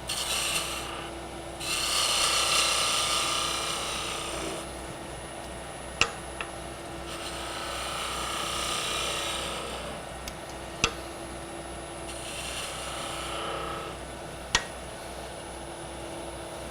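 Roughing gouge cutting a spinning hard maple spindle on a wood lathe, in four passes of a few seconds each over the lathe's steady hum. Three sharp clicks fall between the passes.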